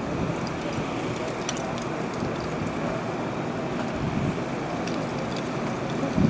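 Steady traffic and car engine noise, with a brief low swell about four seconds in and again near the end.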